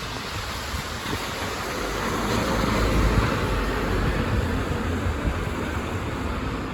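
A city bus driving past, its engine and tyre noise swelling to a peak about three seconds in and then easing off, with wind buffeting the microphone throughout.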